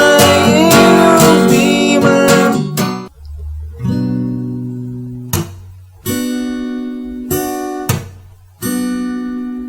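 Acoustic guitar strummed under a singing voice for about the first three seconds, then a handful of single strummed chords, each left to ring and fade, closing out the song.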